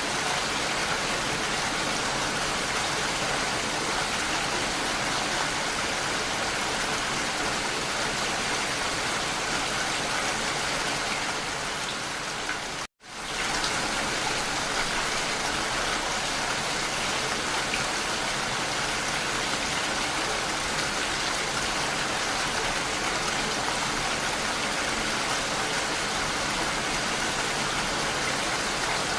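Rain falling steadily. About halfway through it fades down and drops out to silence for an instant, then comes straight back.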